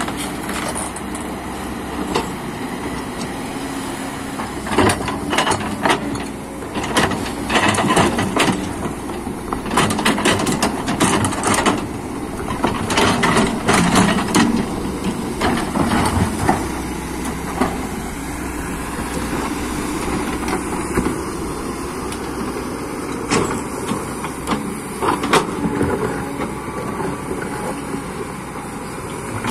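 Excavator's diesel engine running steadily under irregular clanks and scrapes as the bucket knocks and scrapes caked mud off the wheels.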